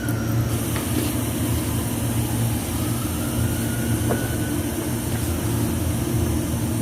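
A steady low mechanical rumble with a constant hum underneath.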